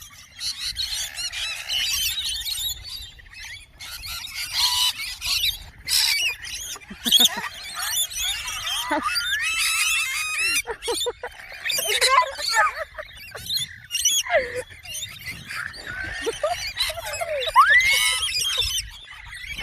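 A group of birds calling over one another, with busy chirps and rising and falling whistled calls.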